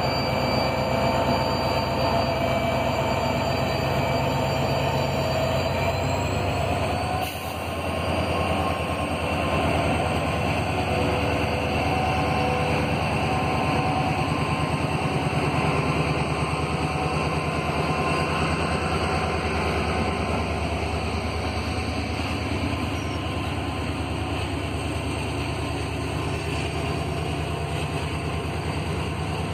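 A WDG4 diesel-electric locomotive running past with its engine drone and whine, which rises and then drops away about seven seconds in. Then a long freight train of covered goods wagons rolls past, its wheels clattering steadily on the rails.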